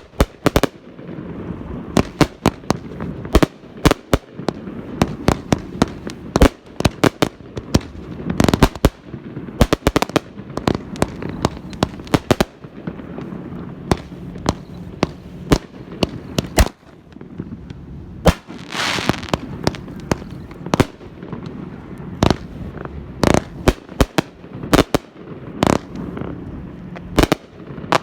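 Fireworks and firecrackers going off in a long, irregular barrage of sharp bangs and pops, some in quick clusters. About 19 seconds in there is a brief hissing burst.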